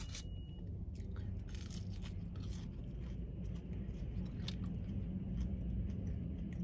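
Close-miked chewing of seasoned potatoes: small soft crunches and wet mouth clicks, over a steady low hum.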